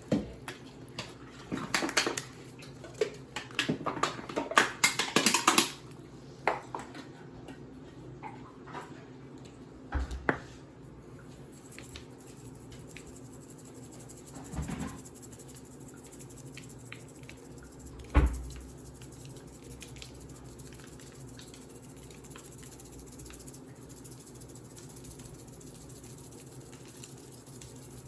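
Clinking and clattering of dishes and cutlery for the first few seconds, then three separate knocks, over a steady low hum.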